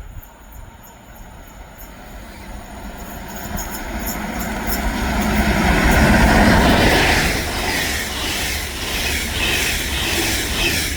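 A train approaching and passing, growing steadily louder over several seconds and loudest about six seconds in.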